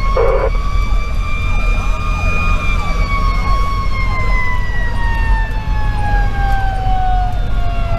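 Federal Q2B mechanical siren on a fire engine, its pitch creeping up over the first couple of seconds and then winding slowly down, heard from inside the cab. A faster-cycling electronic siren sweeps repeatedly underneath, over the steady low drone of the truck's Detroit Series 60 diesel.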